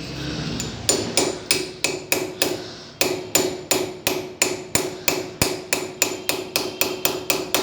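A hammer tapping a brass bush into its bore, about three or four sharp metallic strikes a second, each with a short ring, starting just under a second in.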